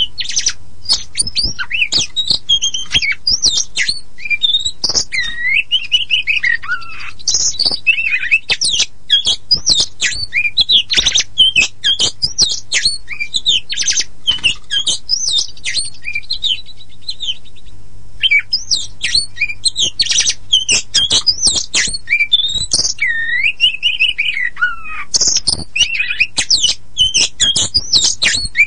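Oriental magpie-robin (kacer poci, the black-and-white form) singing a fast, varied song of whistles, chirps, sweeping notes and harsh squawks, nearly without pause apart from a short break just past the middle. A faint steady low hum runs underneath.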